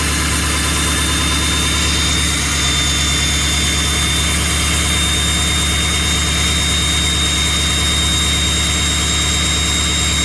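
Engine idling steadily on a cold start, with a thin, high, steady whistle over the idle.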